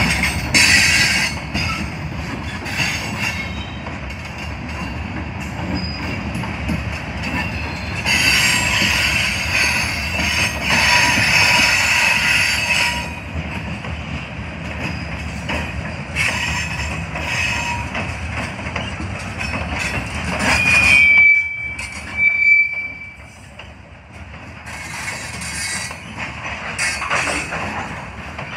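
Train cars rolling past with a steady rumble and metal-on-metal wheel squeal that comes and goes, with two short, high, steady squeals about twenty-one and twenty-two seconds in.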